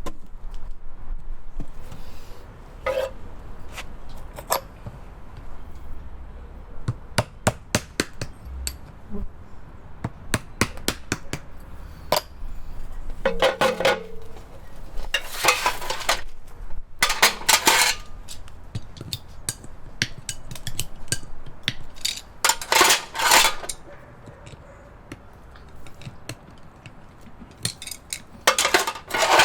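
Farrier's hammer striking metal: scattered light metallic taps and clinks, with several quick clusters of rapid ringing hammer blows.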